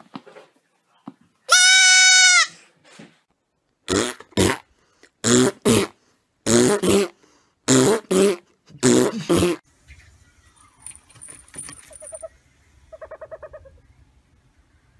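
A baby goat bleats once, loud and drawn out. About seven short, loud cries follow over the next several seconds, then faint rustling and a quick, soft trill near the end.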